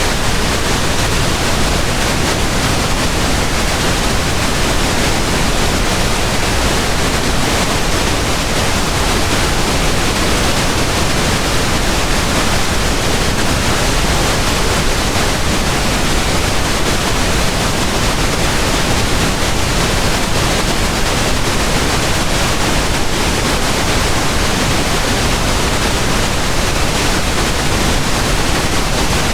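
Steady pink noise: an even, unchanging hiss across the whole range, without any breaks or events.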